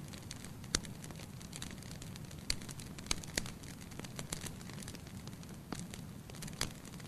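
Wood fire burning in a fireplace: a steady low rumble of flames with irregular sharp pops and crackles, a handful of louder snaps among them.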